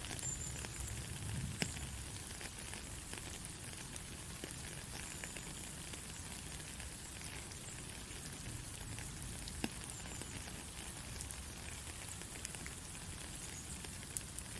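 Steady heavy rain hissing, with scattered sharp drop impacts, two of them louder, about a second and a half in and near ten seconds.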